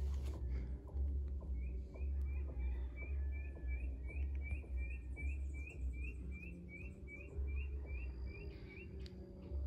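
A bird calling a quick, even series of short high chirps, about three or four a second, for roughly seven seconds, over a low, uneven rumble.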